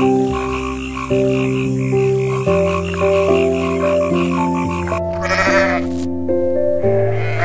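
Frog croaking in a rapid, even pulsing rhythm over soft piano music. About five seconds in, the croaking stops and a goat bleats, with a second bleat starting near the end.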